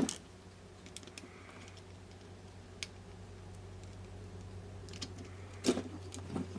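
A sharp click at the start, then scattered light clicks and taps from hands and small tools working inside a small radio-cassette player, with a louder knock near the end. A low steady hum runs underneath.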